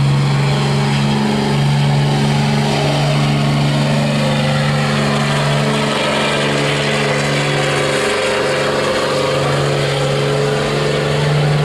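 Diesel pickup truck engine held at full throttle, running at a steady high pitch as it drags the weight sled in a truck pull, with a brief dip about eight seconds in.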